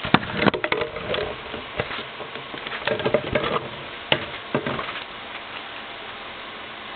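Plastic packaging of a Blu-ray case being handled and pulled open, with no tear tab to help: crackling and clicks in bursts over the first five seconds, then they stop.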